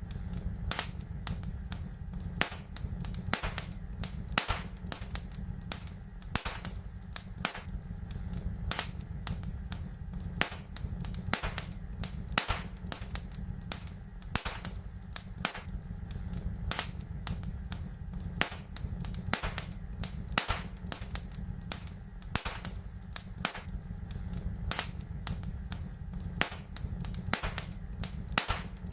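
Wood fire in a fireplace crackling, with frequent sharp pops at an uneven pace over a steady low rumble.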